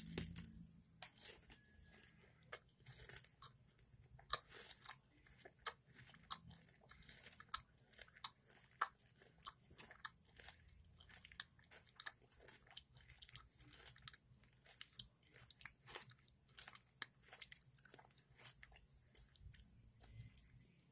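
A person biting into a Reese's Crispy Crunchy bar and chewing it. There is one sharp bite at the start, then a long run of small, crisp crunches as the crunchy peanut filling is chewed.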